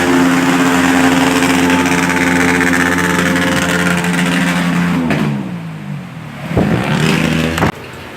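A motor-vehicle engine runs at a steady pitch, winds down about five seconds in, then briefly revs up and down again. It cuts off abruptly near the end, leaving the steady hiss of heavy rain.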